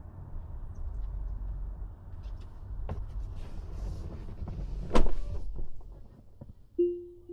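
Car door shutting with a heavy thud about five seconds in, after a steady low rumble of engine and road noise that drops away once the door is shut. A few light clicks follow, and a pitched tone starts near the end.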